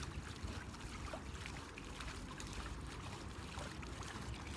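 Water trickling and splashing in many small ticks around an inflatable Lamzac lounge bag floating as a boat, over a steady low rumble.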